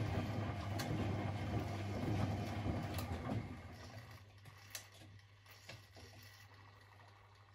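Privileg 3001 S washing machine running, its motor humming steadily. A louder stretch of drum and motor noise fades away about three and a half seconds in, leaving a quieter hum with a few sharp clicks.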